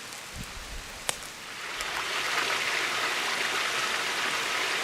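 Running water of a small stream, a steady rushing hiss that swells about two seconds in and then holds. A single sharp click about a second in.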